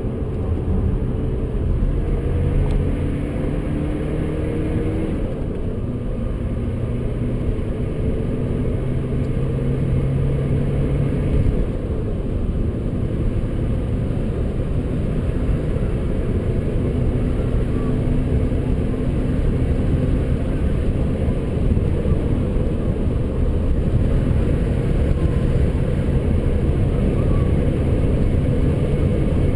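BMW 125d's four-cylinder diesel engine pulling under load as the car accelerates at high speed, heard from inside the cabin over heavy road and wind rumble.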